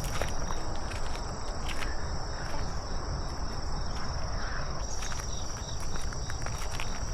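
Insects chirring in one steady high-pitched trill, over a low rumbling background.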